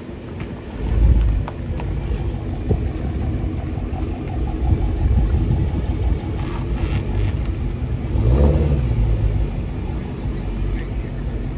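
A car engine running close by with a deep low rumble, swelling briefly about a second in and again, with a short rise in pitch, around eight and a half seconds in.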